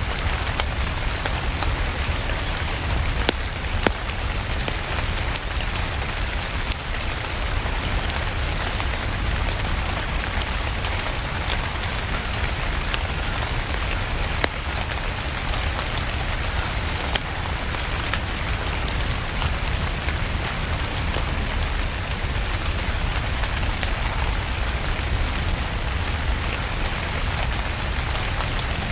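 Steady rain falling, with a few scattered sharp pops of a wood fire crackling.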